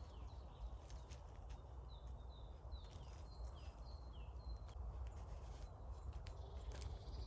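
A small bird chirping: a run of short, quick notes that each fall in pitch, mostly in the middle stretch, over scattered faint clicks and a low rumble.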